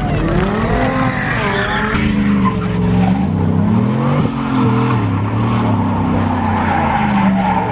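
Car engine revving hard, its pitch rising and falling again and again, while the tires spin and squeal on the pavement, as in a burnout or donuts.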